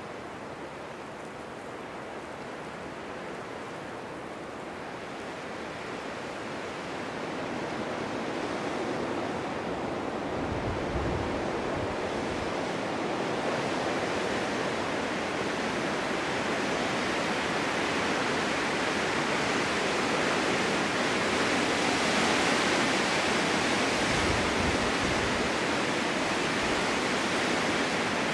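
Winter wind blowing in strong gusts, a steady rushing that swells over the first half and stays loud, with a couple of brief low rumbles of wind buffeting the microphone.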